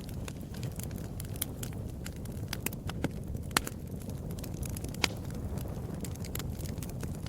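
Fireplace fire crackling, with irregular sharp pops over a low steady rumble; a few pops stand out louder.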